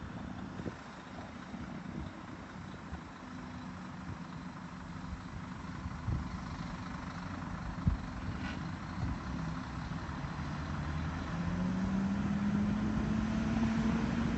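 A truck engine and boat motors running together under load as the truck hauls a boat up a slippery ramp. They get steadily louder, with an engine note building and rising in the last few seconds, and there is a single knock about halfway through.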